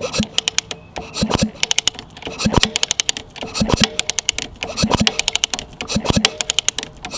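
Suzuki RM125 two-stroke dirt bike being kicked over again and again with its kickstarter while checking the plug for spark. Each kick, about once a second, is a low thud followed by a quick run of sharp clicks.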